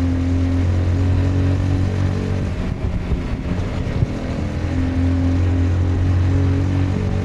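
Honda CBR 250R's single-cylinder engine running on the move at a steady, even note. About three seconds in the note breaks up briefly, with a single click near four seconds, then it settles back to a steady note, over a rush of wind and road noise.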